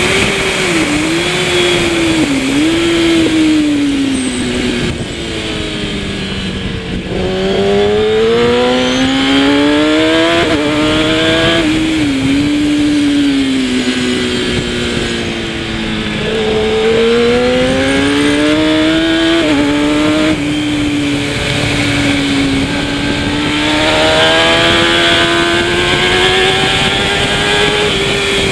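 Kawasaki ZX-10R superbike's inline-four engine at racing speed. Its pitch falls through long slow-downs and climbs hard under acceleration, dropping abruptly at quick upshifts twice around the middle and twice again past two-thirds of the way, then rising steadily to the end, over a constant rush of wind noise.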